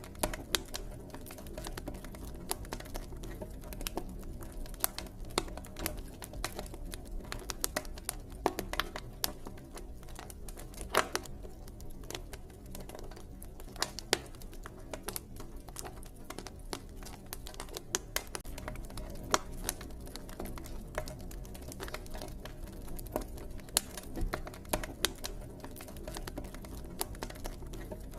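Campfire crackling, with irregular sharp pops and snaps over a steady low rush of burning wood.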